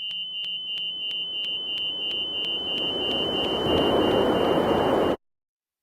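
Helicopter cockpit warning alarm beeping rapidly and high-pitched, about three and a half beeps a second, while a rushing noise swells over the last few seconds as the aircraft falls. All sound cuts off abruptly about five seconds in.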